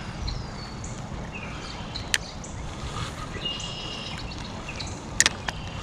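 River-side outdoor ambience: a steady hiss of moving water and air, with short high chirping calls repeating throughout. Two sharp clicks stand out, one about two seconds in and a double one near the end.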